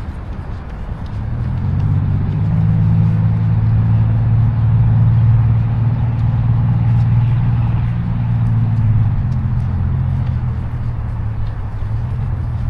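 A motor vehicle's engine running with a low, steady hum. It grows louder about two seconds in and fades toward the end, as if passing slowly by.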